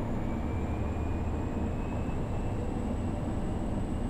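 Cessna Caravan's PT6A turboprop engine and propeller running steadily at run-up power, heard in the cabin, during the propeller overspeed governor test. A faint whine edges up in pitch over the first couple of seconds.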